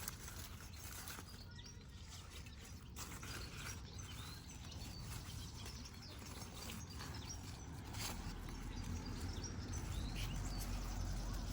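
Outdoor ambience with scattered short bird chirps, over a low rumble that builds toward the end.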